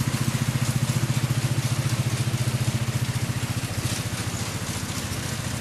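Lawn mower's small engine running steadily with a fast, even firing pulse, under way on a test mow with its repaired chain drive.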